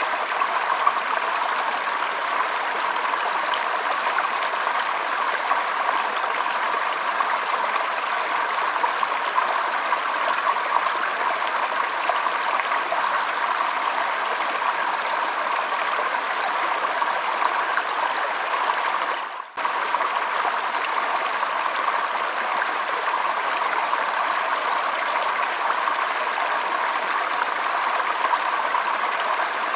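Shallow stream flowing and trickling in a steady, even wash of water sound. It cuts out sharply for a split second about two-thirds of the way through.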